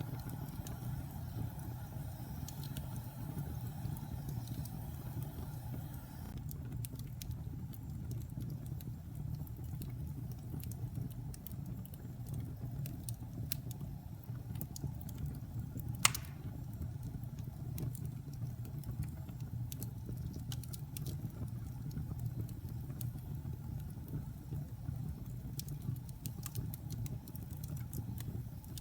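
Wood fire burning in a fireplace: a steady low rumble of flames with scattered small crackles and one sharp, louder pop about halfway through. A faint higher hiss drops away about six seconds in.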